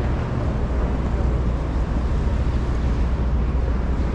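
City street traffic noise: a steady low rumble of vehicle engines under an even hiss of passing traffic.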